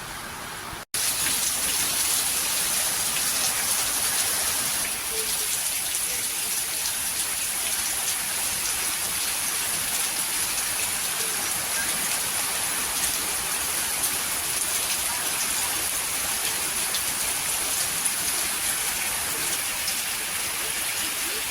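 Heavy rain falling: a steady, even hiss of rainfall, starting abruptly about a second in.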